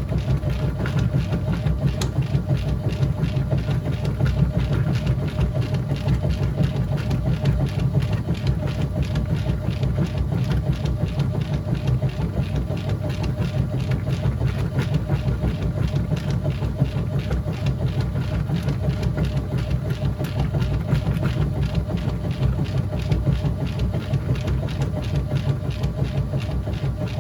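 Whirlpool top-load washing machine running mid-cycle: a steady, even low mechanical hum with no change in pace.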